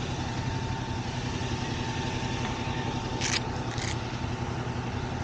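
Motorcycle engine idling steadily, with two short hissing noises a little past the middle.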